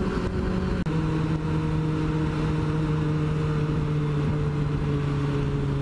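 Motorcycle engine running at steady revs while riding, with a hiss of wind and road noise. About a second in there is a brief break, after which the engine note settles slightly lower and stays even.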